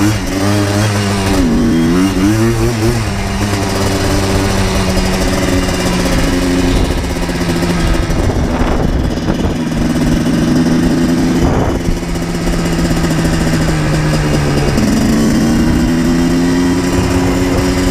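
2000 Yamaha Blaster 200's single-cylinder two-stroke engine running under way. Its pitch falls and rises a few times in the first three seconds, then holds fairly steady, dips again near the end and climbs back up.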